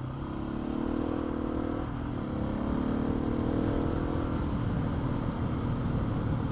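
Husqvarna motorcycle engine pulling along a gravel track, its pitch climbing, dropping at a gear change about two seconds in, then climbing again before easing off, with steady low road and wind noise underneath.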